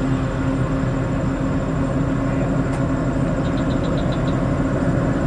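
Heavy truck's diesel engine running steadily, a low even drone with no revving.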